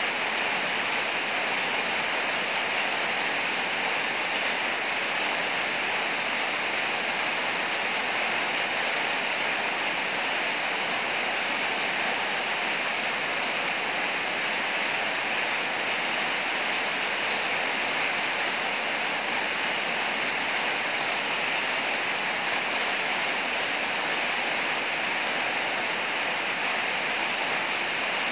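Heavy rain falling steadily, an even hiss with no thunderclaps.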